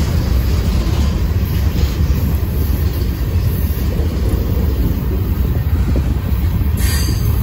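Freight train boxcars and a coil car rolling slowly past on the rails: a steady low rumble of wheels and trucks on the track.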